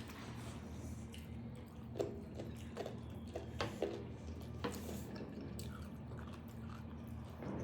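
Close-miked eating sounds: chewing and wet squishing of chicken curry and rice, with a few sharp clicks, over a steady low hum.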